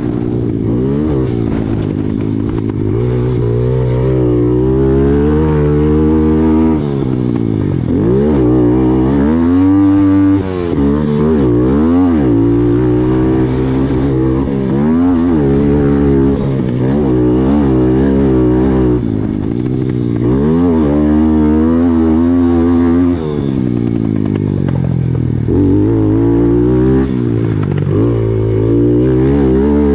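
A pit bike engine being ridden hard, revving up and falling back over and over as the rider works the throttle and gears, with brief sharp drops in power about a third and three quarters of the way through.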